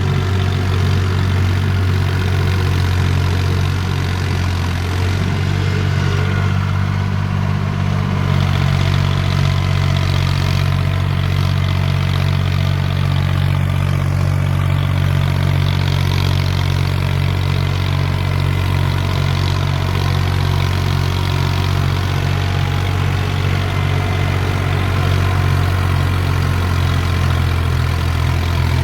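Mahindra 265 tractor's diesel engine idling steadily.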